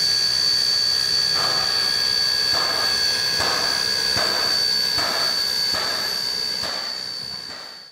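Steam locomotive A 428, a 1909 4-6-2 Pacific, hissing steam steadily with a high whistle-like tone. Soft rhythmic puffs come about once a second from a second and a half in, and the sound fades out near the end.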